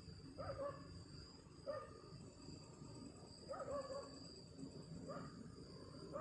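A dog barking in the distance, four short barks spread irregularly over a few seconds, over a steady high drone of insects.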